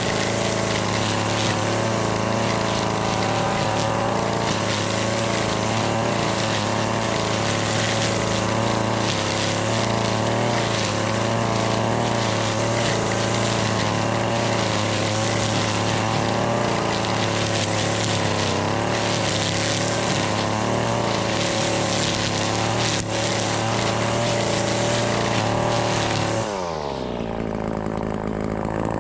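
Husqvarna 525L two-stroke string trimmer running at high throttle with a steady engine note. Near the end the throttle is released and the engine pitch drops quickly to a steady idle.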